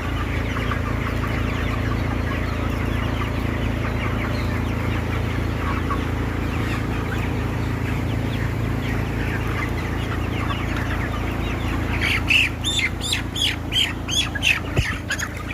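A house full of broiler chickens clucking and chattering together over a steady low hum from the tunnel ventilation. From about twelve seconds in, nearby birds give loud, sharp calls in quick succession, about three or four a second.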